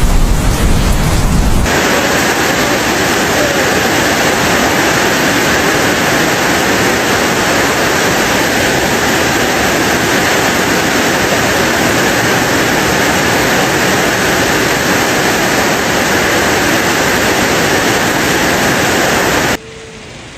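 Heavy rain pouring down in a dense, steady hiss. It comes in abruptly about two seconds in, after a low, rumbling, wind-like noise, and cuts off suddenly near the end.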